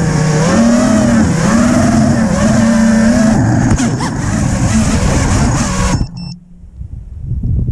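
FPV quadcopter's electric motors whining, the pitch rising and falling as the throttle changes. About six seconds in the whine cuts off abruptly, with a few short high beeps, leaving quieter rustling noise.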